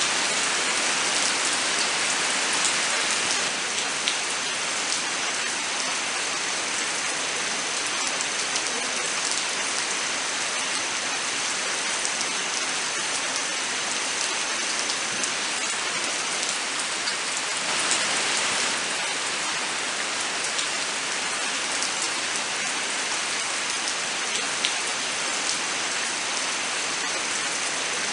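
Steady rain falling in a forest, a dense even hiss of rain with scattered single drops ticking through it.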